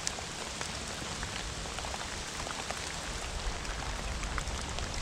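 Steady rain falling, an even hiss with many small, scattered drop ticks.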